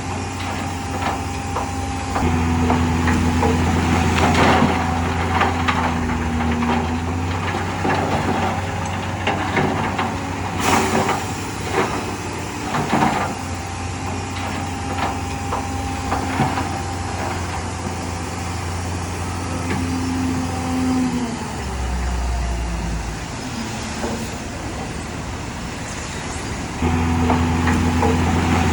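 Diesel engine of a Shantui DH17C3 bulldozer running steadily under load, with repeated metal clanks and knocks. About three-quarters of the way through the engine drops briefly to a deeper, lower-revving tone, then picks up again near the end.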